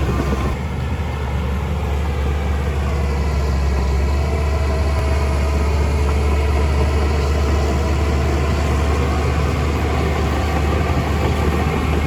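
Heavy construction machine's diesel engine running steadily, with a deep low hum and a pitch that drifts slightly up and down.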